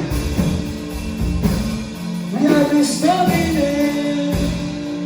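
Live worship-band music, with guitar and drums under held chords; a voice comes in singing a held, sliding line about halfway through.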